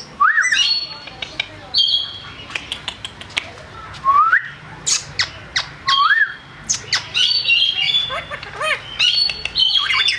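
Yellow ringneck parrot calling: repeated harsh squawks mixed with short rising whistles and sharp clicks, with a quick run of arched whistled notes near the end.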